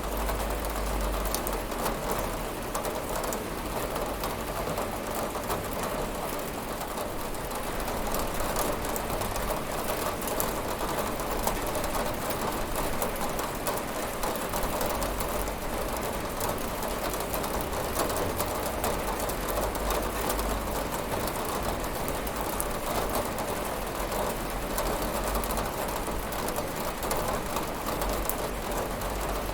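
Steady heavy rain on window glass: a dense even hiss of countless small drop hits, with a low rumble underneath that fades and returns.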